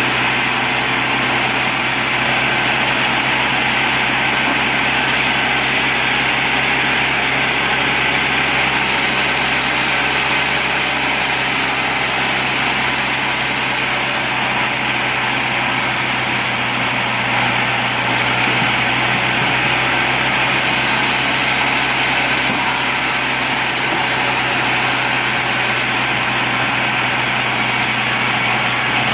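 Sawmill bandsaw machinery running steadily, an even mechanical drone with a constant hum and no breaks.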